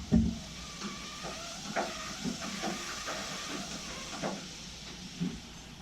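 Steady hiss of a soldering torch flame, with a few light knocks and clicks.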